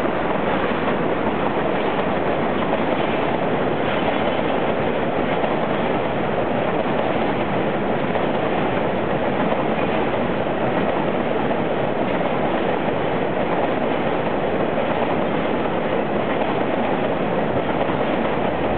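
A freight train of tank wagons rolling past on the rails, a steady noise of wheels on track.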